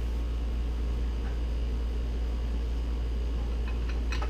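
Steady low background hum, with a few faint light clicks near the end as parts are handled.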